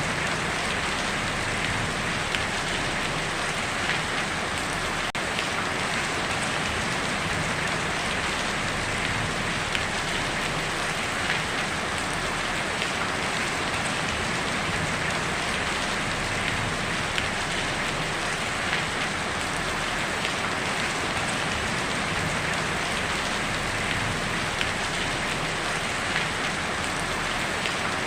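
Heavy rain drumming steadily on a tin roof, a dense even hiss with scattered louder drop ticks.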